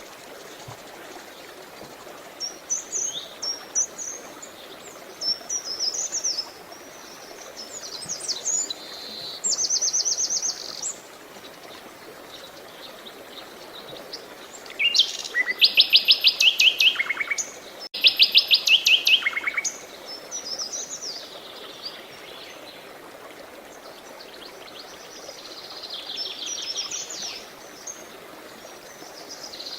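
Songbirds singing and chirping in short high phrases over a steady murmur of running water. The loudest part is a pair of fast runs of rapidly repeated notes about halfway through.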